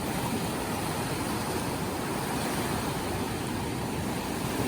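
Ocean surf washing steadily, a continuous rushing noise without distinct breaks.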